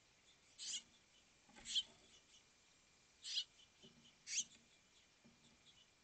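Small songbird at a seed feeder giving short, harsh chirps, four of them spaced about a second apart.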